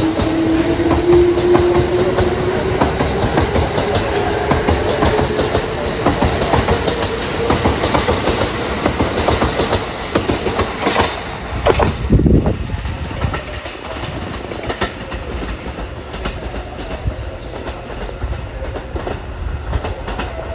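Kintetsu electric train of 2800, 2410 and 1400 series cars running, wheels clattering rapidly over rail joints, with a motor whine that rises in pitch over the first ten seconds as the train gathers speed.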